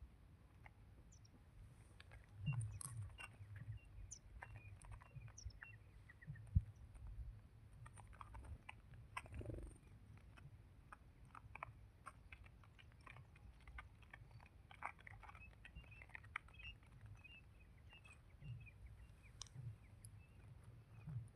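Faint scattered clicks and soft taps with short, high chirps, from a small sparrow moving about and cheeping. There is one sharper tap a few seconds in.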